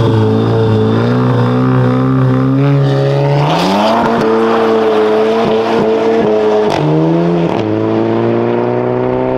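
Volkswagen Golf 7 GTI's turbocharged four-cylinder running, then revving up as the car pulls away, with a dip in pitch and a rise again near the end, as at a gear change. A few short sharp cracks come while it accelerates.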